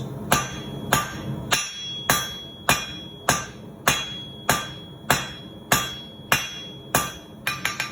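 Blacksmith's hammer striking red-hot half-inch square steel stock on an anvil, about one and a half blows a second, each with a short metallic ring, drawing out a taper. Near the end there is a quick run of lighter, faster taps.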